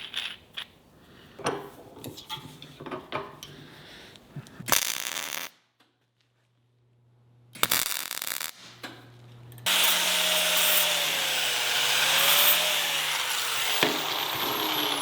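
Workshop tool sounds: scattered clicks and knocks, then from about ten seconds in a power tool's motor running loudly, its pitch wavering as the load changes.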